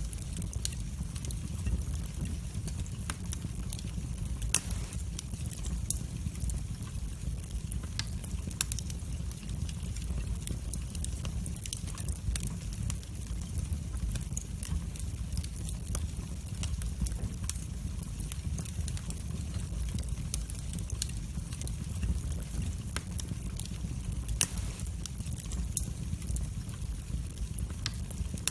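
Wood fire burning in a fireplace: a steady low rumble of the flames with scattered sharp crackles and pops, two louder pops about four and a half seconds in and near the end.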